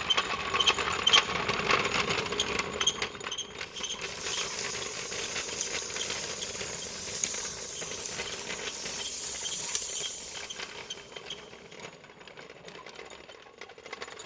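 Small motor of a homemade model tractor whirring, with a dense rattle of clicks from its gears and a hiss, fading over the last few seconds.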